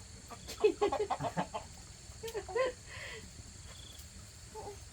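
Chicken squawking and clucking: a quick run of short calls about half a second in, then a couple more about two seconds later.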